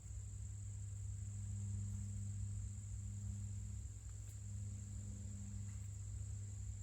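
Steady high-pitched insect trill, likely crickets, running without a break over a low steady hum.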